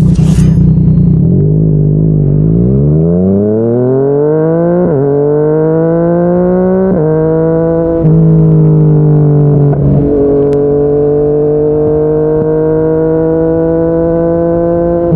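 Yamaha MT-09 three-cylinder engine through a Yoshimura R55 slip-on exhaust, accelerating hard with rising revs and shifting up about four times, then cruising with the revs slowly climbing.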